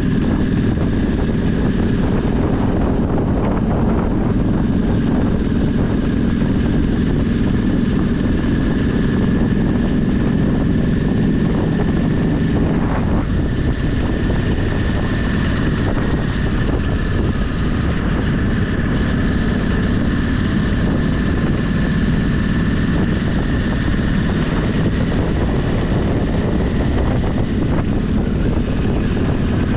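Motorcycle engine running at a steady cruise, with wind rushing over the microphone as the bike rides along. A steady high tone sits above the engine.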